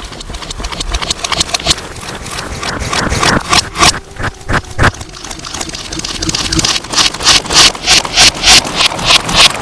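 Slime being squished and pressed, giving a run of wet clicks and pops that come faster and louder in the last few seconds, about three a second. The sound is distorted by processing.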